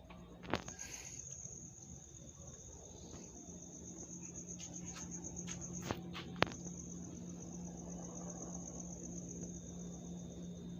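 An insect trilling steadily in a fast, even pulse, coming in about half a second in. Under it is a low steady hum, with a few sharp clicks, two of them about six seconds in.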